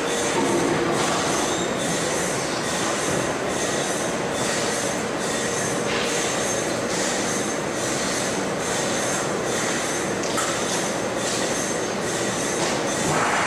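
Sawmill machinery running: a steady metallic squealing and grinding with a regular pulse roughly every three-quarters of a second.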